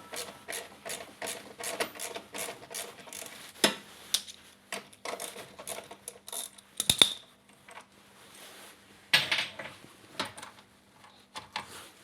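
Ratchet wrench clicking in a quick, even run as fixings are undone, followed by a few sharper knocks of metal parts and tools being handled.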